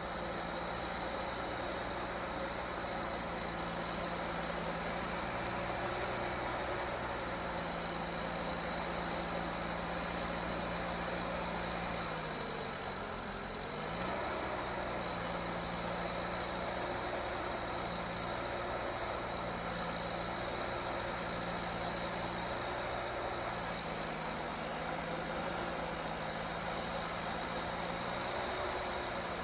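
Heavy vehicle engine running, its pitch shifting up and down a few times, dropping and climbing back about thirteen seconds in.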